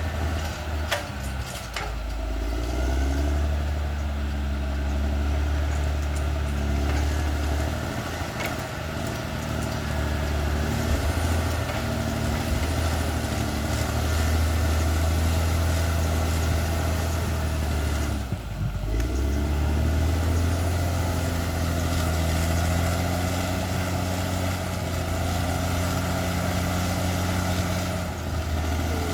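Caterpillar D6R XL bulldozer's diesel engine running with a steady low note, which dips briefly twice as the engine load changes.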